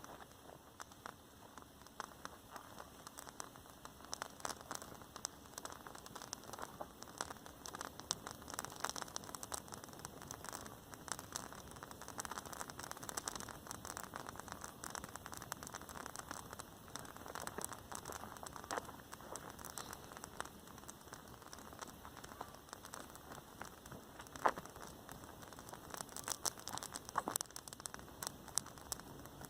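Rain falling, with many separate drops striking a nearby surface in irregular ticks over a faint steady hiss; a few louder drop hits come near the end.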